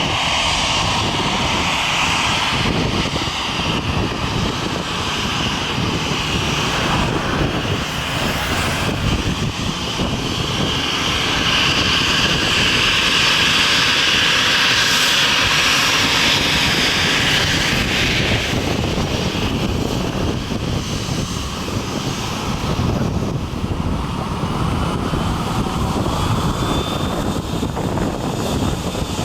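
Airliner engines running at high power close by, a loud continuous noise that is loudest about halfway through.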